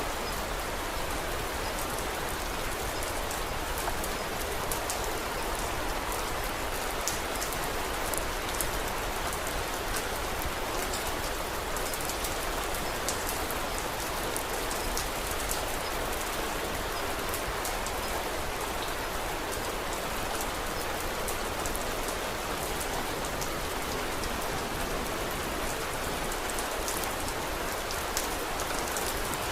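Steady rain falling, a dense even hiss with many small sharp clicks scattered through it.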